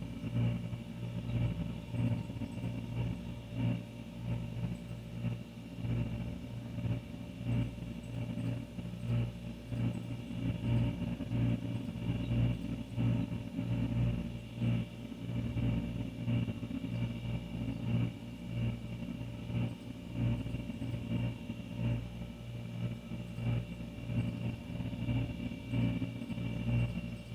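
Older refrigerator's compressor running: a steady low hum with a fainter high whine above it, flickering slightly in loudness.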